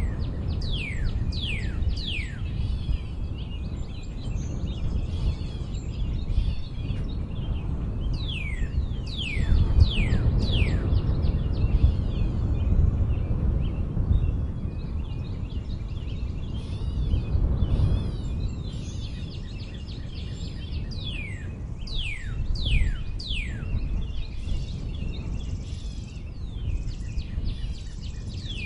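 Birds singing and chirping outdoors, with runs of three or four quick, steeply falling whistles coming a few times, over a continuous low rumble.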